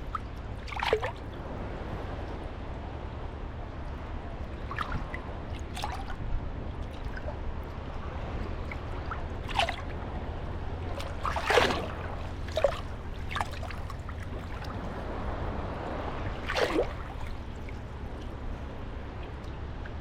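Small sea waves lapping and splashing at the water's edge: short, irregular splashes every few seconds over a steady low rumble.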